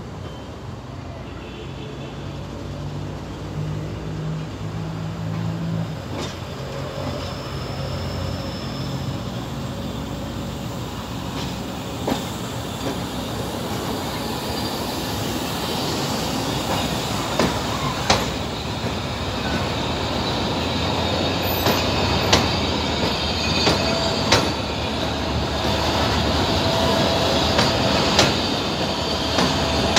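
Passenger train approaching and rolling past close by: the rumble of its wheels on the rails grows steadily louder, with sharp clacks as the wheels cross rail joints. A steady high wheel squeal joins over the last several seconds.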